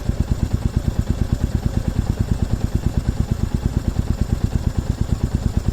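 Single-cylinder motorcycle engine idling steadily, with an even, low thumping beat of about seven pulses a second.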